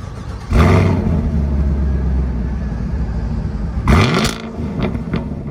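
Car engine cutting in suddenly about half a second in and running at a low, steady idle, then revved sharply near four seconds in, its pitch rising.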